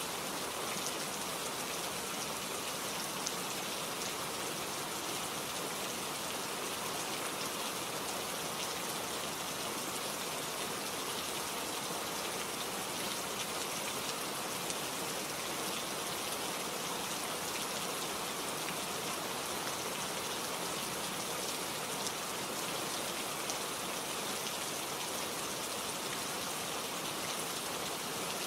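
Steady rain falling on leaves and foliage, an even hiss with fine drop ticks throughout.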